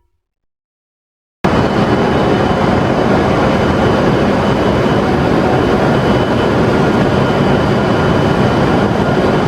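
Silence for about a second and a half, then the steady running noise of a train starts abruptly and holds even.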